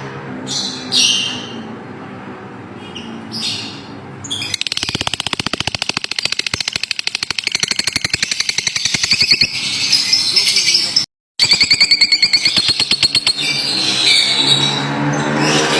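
Lovebirds calling: short high chirps at first, then from about four seconds in a long fast rattling chatter with shrill high notes, broken by a brief cut in the sound near the eleven-second mark, before more chirping.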